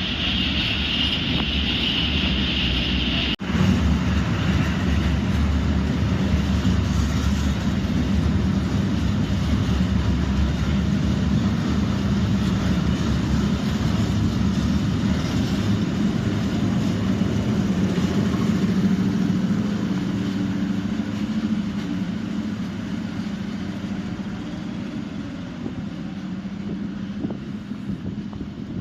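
SM42 diesel shunting locomotive running with a steady low engine drone, fading over the last several seconds. A high squeal sounds in the first three seconds, then the sound breaks off briefly.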